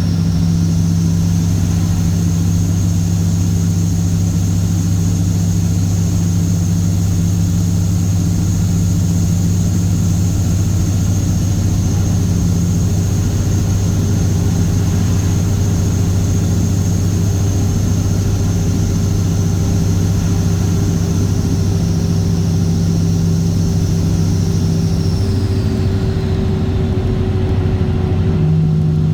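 Cat C15 Acert inline-six diesel with straight pipes, running steadily with a deep, even drone; its note changes briefly near the end.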